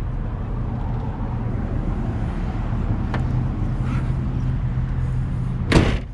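Steady low rumble of a motor vehicle engine idling, with a single sharp knock near the end.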